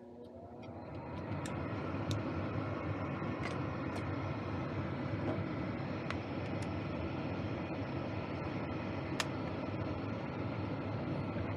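Gas furnace starting up on a test run after its flame sensor was cleaned: a motor whine rises over the first second or so, then the furnace runs with a steady rushing hum and a few light ticks.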